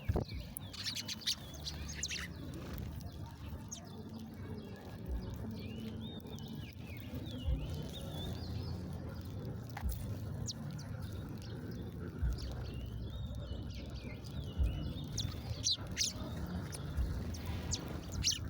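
Small birds chirping: short chirps that rise and fall, scattered through, over a steady low rumble with a few soft thumps.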